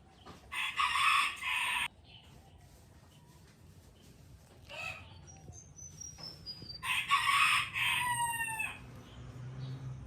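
A rooster crowing twice, the first crow about half a second in and the second about seven seconds in, ending on a falling note. A small bird chirps a short falling series between them.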